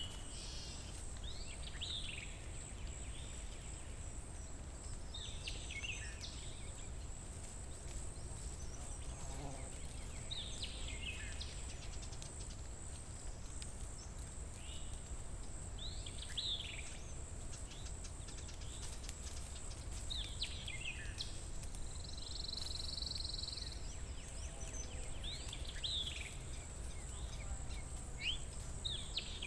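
Forest ambience: a bird repeats a short call that sweeps down in pitch every few seconds. Under it run a steady high-pitched whine and a low rumble, with a brief buzzy trill partway through.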